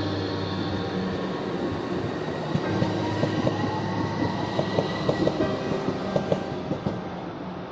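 Passenger train running on the line, with a run of sharp wheel clacks over the rail joints in the middle.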